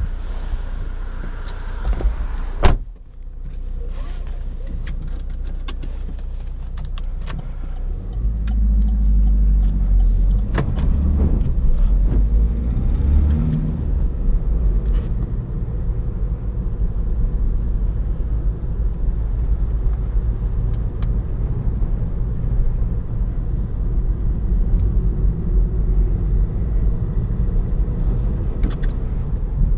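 Opel Astra's 1.6-litre twin-turbo diesel four-cylinder heard from inside the cabin, running low and steady after a sharp loud click about three seconds in. From about eight seconds in it gets louder, rising and falling in pitch a few times, then settles into a steady low drone with road rumble.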